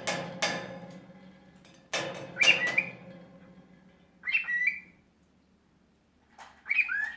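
Quaker parrot (monk parakeet) giving short, high squawks and chirps in several separate bursts. Sharp knocks with a brief ring come near the start and again about two seconds in.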